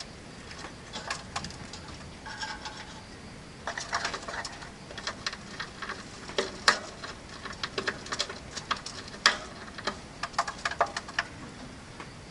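Rosy-faced lovebirds chirping: a scattered run of short, sharp chirps and clicks, busiest in the middle stretch.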